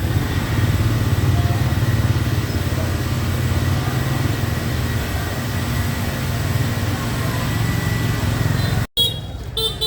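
Steady low drone of a running vehicle engine, cut off abruptly near the end.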